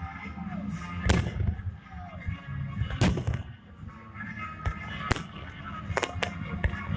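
Holiday fireworks salute: about six sharp bangs of shells bursting, the loudest about a second in and about three seconds in, over music.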